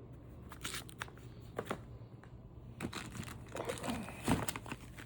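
Fireworks cakes and their packaging being handled, with irregular crinkling, rustling and light knocks over a steady low hum.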